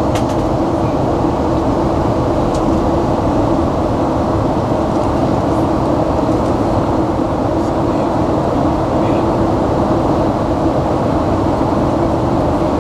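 Jet airliner cabin noise: the steady rush of engines and airflow heard from inside the passenger cabin, with a constant low hum.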